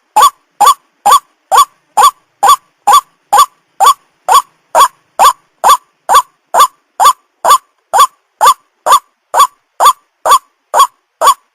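White-breasted waterhen (ruak-ruak) calling: short, loud, rising notes repeated at an even pace of about two a second, each one alike.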